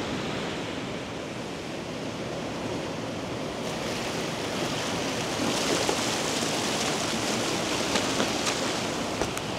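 Sea surf washing up the sandy shore, a steady rush that swells about halfway through, with a few faint clicks near the end.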